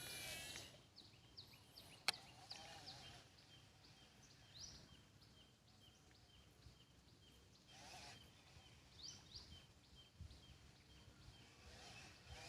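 Faint birdsong: a run of short, evenly spaced high chirps with a few louder rising notes mixed in, and a single sharp click about two seconds in.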